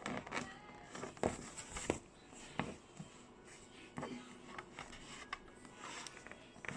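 Fabric being handled and folded by hand: irregular soft rustles and small knocks, with no steady rhythm.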